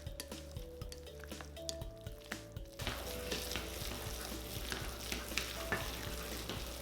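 Wet ground-chicken dumpling filling being stirred in a bowl: a few light clicks at first, then from about three seconds in a steady wet, squelching noise of the mixture being churned. Background music with held notes plays throughout.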